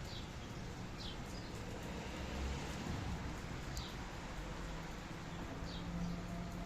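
Steady rain hiss, with a bird repeating a short, high, falling chirp every second or two.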